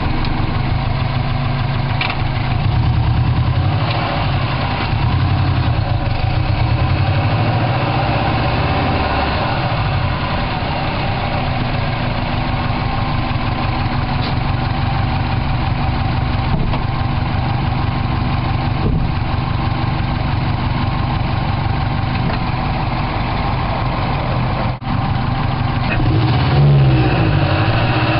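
Turbocharged flat-four of a 2005 Subaru WRX, fitted with an IHI VF39 turbo, idling steadily, heard close up from inside the engine bay. The engine note swells briefly with a shift in pitch near the end.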